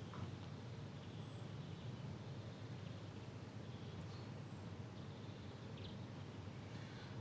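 Faint steady low background hum, with a few faint, brief high chirps scattered through it.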